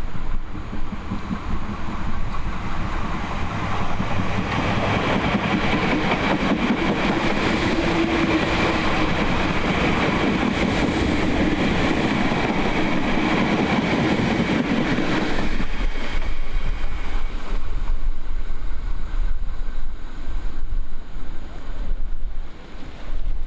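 A train running past close by: a steady rush of wheels on rail with faint steady tones, building over the first few seconds and cutting off about fifteen seconds in. Wind buffets the microphone throughout.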